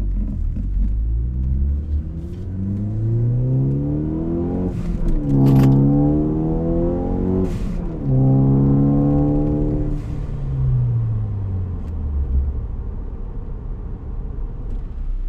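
Turbocharged 2.0-litre four-cylinder of a Ford Focus ST with COBB intake, downpipe and cat-back exhaust, revving up, with two short hisses near the middle, holding high revs briefly, then dropping back to a low rumble.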